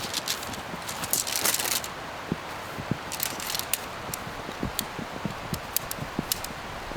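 Steady rain falling, with crinkling rustles of tent and tarp fabric and scattered clicks and knocks as a tent is pitched in the rain. The loudest rustle comes about a second in.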